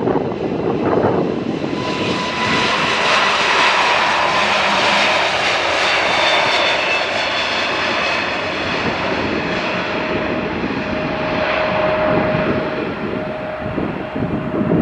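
A fixed-wing aircraft's engines running close by: a loud rushing noise that swells about two seconds in and stays strong, with steady whining tones over it that shift lower later on.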